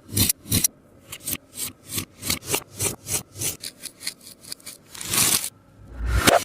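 Hands pressing and squeezing a sticky taba squishy, its tacky surface crackling as it peels off the fingers in quick scratchy strokes, about three a second. A longer crackle comes about five seconds in, and a dull thump near the end.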